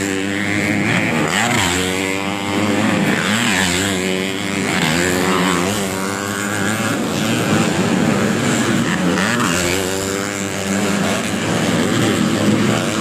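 Several underbone (bebek) motorcycles racing on a dirt motocross track, their engines revving up and falling back over and over as the riders accelerate, shift and brake for corners, with several engines overlapping.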